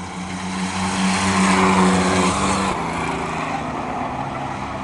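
Race trucks' engines running at speed on a short oval, growing louder as they come past and dropping in pitch about two and a half seconds in as they go by.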